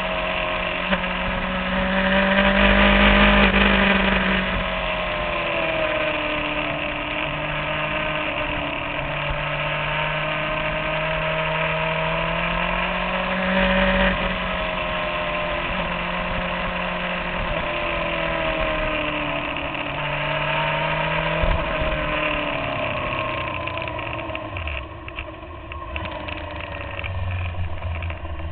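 Inline-four sport bike engine recorded from the bike itself, its pitch rising and falling again and again as the rider accelerates and rolls off through bends, over steady wind rush. Near the end the engine note drops lower and quieter as the bike slows.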